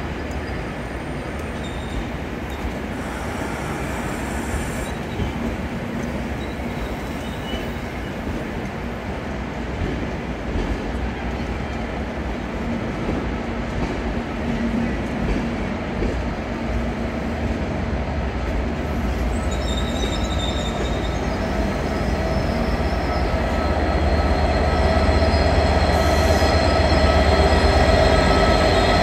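Transport for Wales loco-hauled train with Mk4 coaches, driving van trailer leading, rolling slowly into the platform: a steady running rumble with thin metallic squealing from the wheels. It grows gradually louder, and the low rumble swells in the last few seconds.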